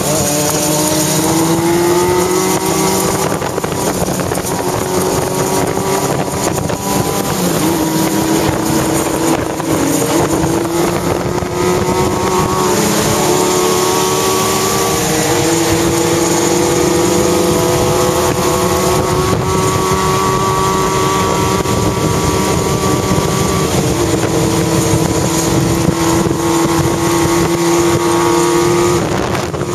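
Motorcycle engine running under way, heard from the rider's seat, its pitch climbing slowly and stepping between gears, over steady wind noise on the microphone.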